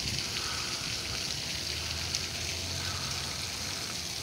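Steady outdoor hiss, with one faint click about two seconds in.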